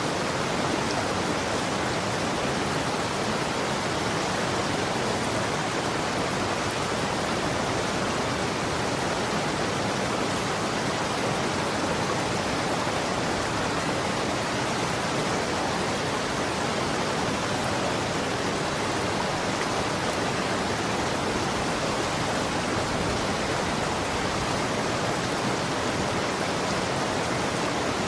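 Running water flowing steadily: an even, unbroken rushing noise with no separate splashes or drips.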